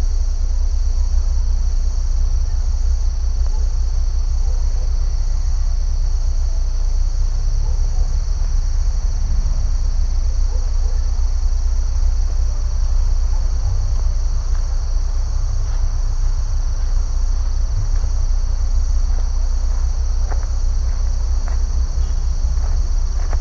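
Steady insect chorus, a constant high-pitched trill that does not let up, over a continuous low rumble. A few faint clicks come near the end.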